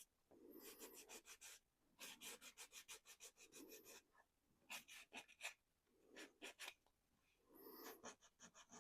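Faint hand sanding of a painted 3D-printed plastic RC body shell: quick back-and-forth strokes, about five a second, in several short runs with pauses between. The sanding wears the paint off the raised areas to weather it.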